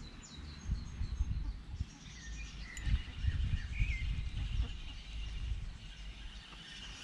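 Small birds chirping, a few short high calls and descending chirps, over an uneven low rumble.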